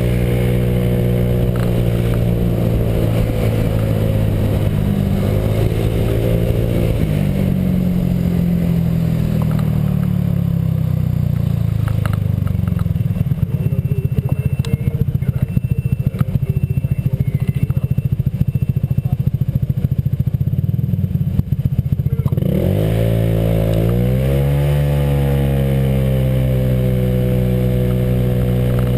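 Honda PCX scooter's single-cylinder four-stroke engine running under way through an aftermarket exhaust, its drive set by a J.Costa variator. The note holds fairly steady, then runs lower and rougher for a long stretch. Near the end the revs drop sharply and rise again as it pulls.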